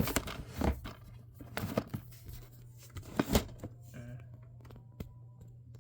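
Irregular clicks and short rustling noises over a steady low hum. The clicks are densest in the first three seconds and thin out after about four seconds.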